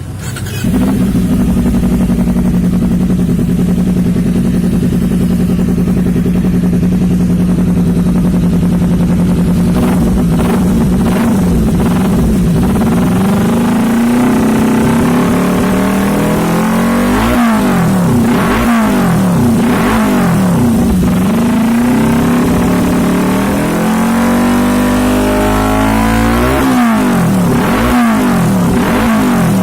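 Kawasaki Ninja 250 FI parallel-twin engine through a stainless slip-on aftermarket exhaust, idling steadily, then revved again and again from about halfway through, the pitch rising and falling with each blip of the throttle.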